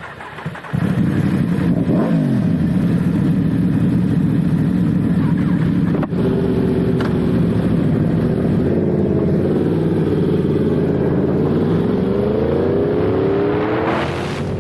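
Yamaha YZF-R1 sportbike engine running steadily, then rising in pitch over the last couple of seconds as it revs or accelerates.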